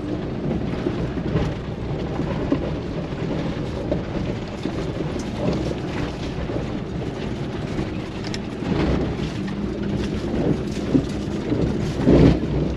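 A van grinding up a rough, bumpy dirt track: a steady low rumble of engine and tyres with scattered knocks and rattles, getting louder near the end.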